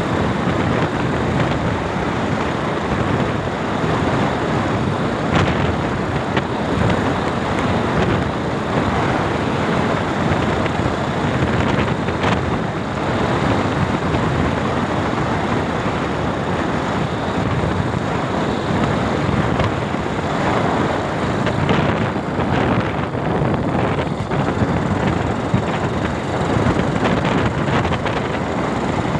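Steady wind and road noise from a moving motorcycle, with wind rushing over the microphone.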